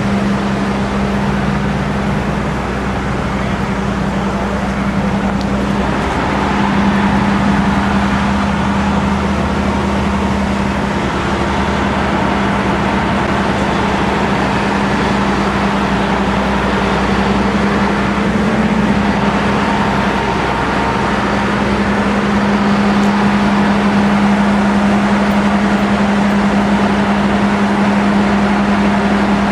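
Fire truck's diesel engine running at a steady speed, a constant low drone with a broad rush of noise over it.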